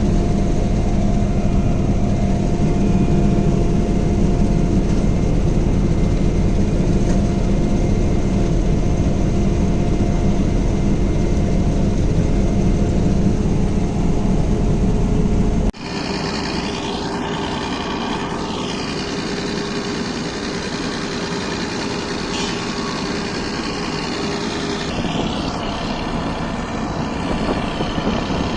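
Combine harvester running steadily, a loud continuous engine and machinery drone. About halfway through it cuts abruptly to a somewhat quieter, steady engine drone.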